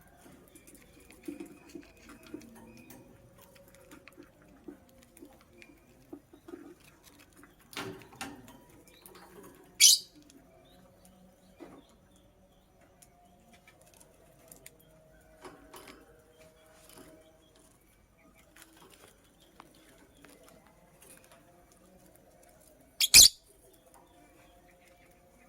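Lovebird moving about its cage with soft rustling and scratching, one sharp high chirp about ten seconds in, and a loud, very short double burst near the end.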